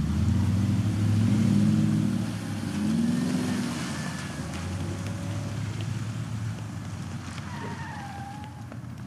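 Range Rover SUV engine revving as it pulls away, its pitch rising and falling several times in the first few seconds, then settling and fading with distance. A faint high squeal slides down in pitch near the end.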